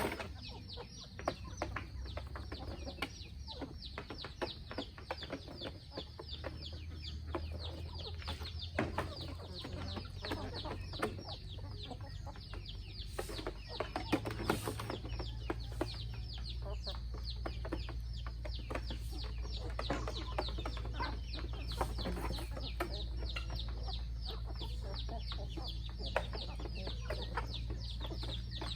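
A flock of chickens clucking and cheeping, with a steady stream of short, high, falling peeps several times a second.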